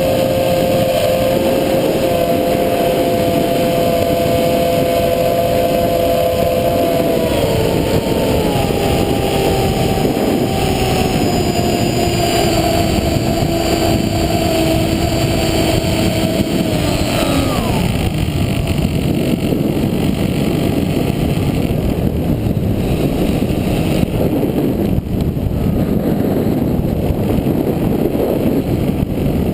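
A motor's steady whine, most likely an FPV model plane's electric motor and propeller, over heavy wind rumble on the microphone. The whine drops in pitch about a quarter of the way in, then slides down and fades out a little past halfway, leaving only the wind.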